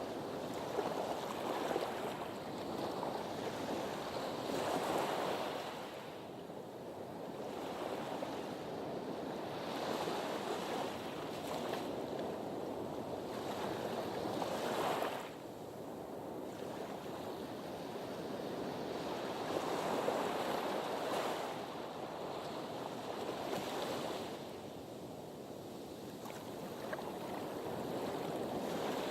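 Sea waves washing against a harbour breakwater, the surf swelling and falling back every few seconds, with one swell cutting off sharply about halfway through.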